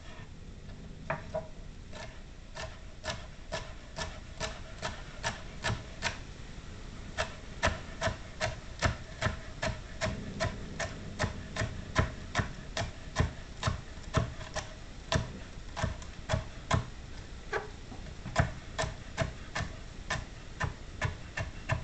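Kitchen knife chopping on a cutting board in steady strokes, about three a second, with a short pause about six seconds in.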